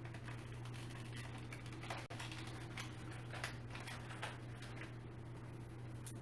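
Faint, irregular clicks and light knocks of hand tools and chair parts being handled during assembly, over a steady low hum.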